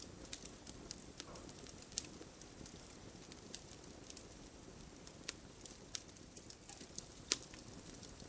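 Wood fire crackling: irregular sharp pops and snaps, the loudest about two seconds in and again near the end, over a low steady rumble of the flames.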